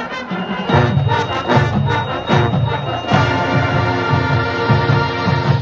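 High school marching band playing: brass and drums in loud, punchy repeated chords, then a held brass chord from about three seconds in with drum hits under it.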